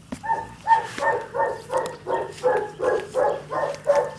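A dog barking over and over in an even rhythm, about three barks a second.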